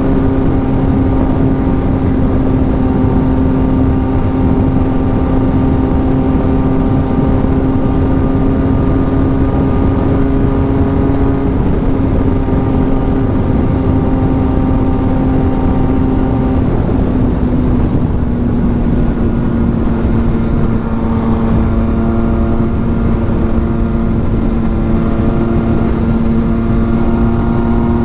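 Yamaha MT-09's three-cylinder engine, fitted with an aftermarket exhaust, held at high revs in a sustained high-speed run over heavy wind rush. Its steady note dips slightly about twelve seconds in and settles a little lower from about seventeen seconds on.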